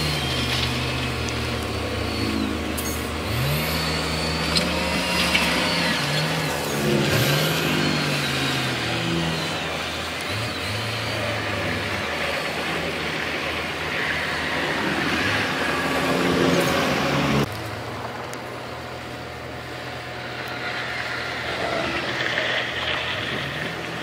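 Diesel engines of heavy earthmoving machines running and revving up and down repeatedly. The sound changes abruptly about two-thirds of the way through, to a steadier engine note.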